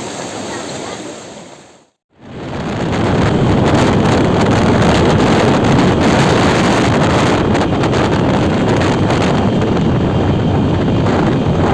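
Waterfall water rushing loudly and steadily, close to the microphone. The sound drops out for a moment about two seconds in and comes back louder.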